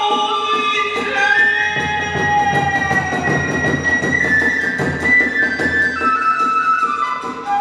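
Hiroshima kagura hayashi: a transverse bamboo flute holds long, slightly sliding notes over fast, continuous drum and hand-cymbal strokes.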